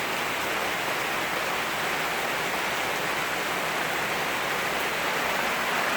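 Very heavy rain falling in a steady, unbroken rush.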